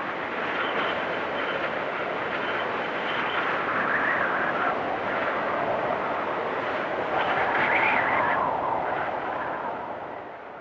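Blizzard wind rushing steadily, swelling in two gusts, then fading down near the end.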